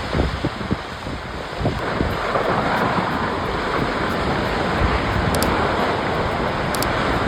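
Rockslide: rocks tumbling down with several heavy thuds in the first two seconds, building into a steady rushing roar.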